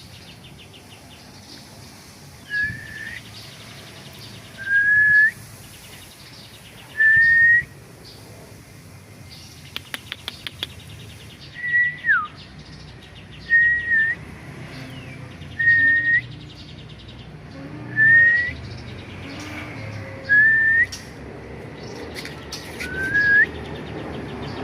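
A series of short, clear, rising whistled notes, about one every two seconds and about ten in all, one of them sliding downward. A quick run of clicks comes near the middle.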